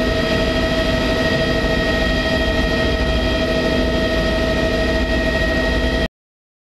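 Tour helicopter in flight: a steady drone of turbine and rotor noise with a constant high whine, cutting off suddenly about six seconds in.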